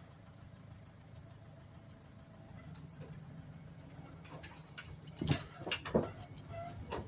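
Engine of a homemade doodlebug skidder, built from a Dodge W250 pickup, idling steadily, with a few sharp knocks about five and six seconds in.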